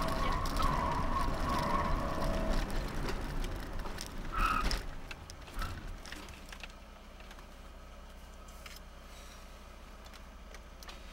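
Alfa Romeo 33 1.3 VL's flat-four boxer engine heard from inside the cabin, running hard at first, then easing off as the car slows, with a brief high-pitched chirp about four and a half seconds in. From about six seconds in the engine idles quietly with the car at a standstill.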